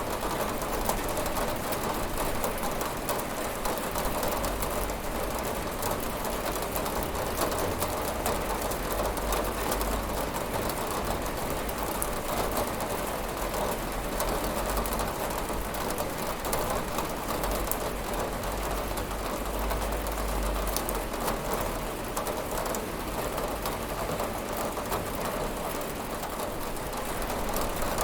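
Steady rain pattering on a window pane, an even rush of many small drop ticks.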